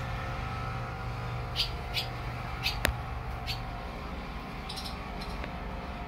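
A small bird chirping: a string of short, high chirps, irregularly spaced, with a sharp click near the middle, over a steady low background rumble.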